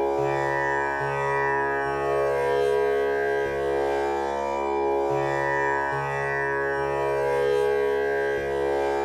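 Tanpura drone tuned to C# for a male voice, its strings plucked one after another in a repeating cycle, about one pluck a second, each note ringing on into the next as a continuous drone.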